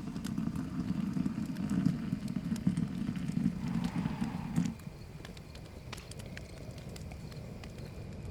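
Campfire crackling with scattered sharp pops. For the first five seconds a dense low rushing sound runs under it and then stops abruptly.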